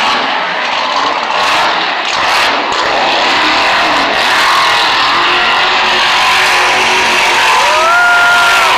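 Monster truck engine running loudly in an arena. Near the end a short tone rises and holds for about a second.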